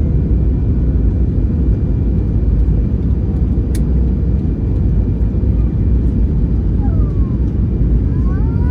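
Steady low rumble of engine and airflow noise heard inside an Airbus A320 cabin, with a single sharp click a little after three and a half seconds.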